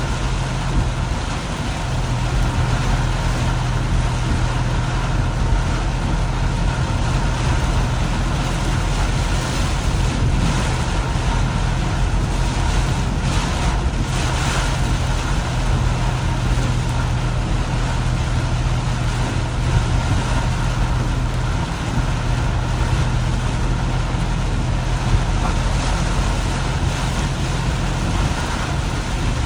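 Car driving on a road in heavy rain: steady engine and road noise under a constant hiss of rain and tyre spray, swelling briefly about halfway through.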